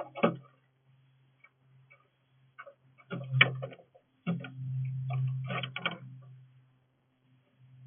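Irregular taps and clicks of birds pecking and hopping on a bird feeder, some in quick clusters, over a steady low hum.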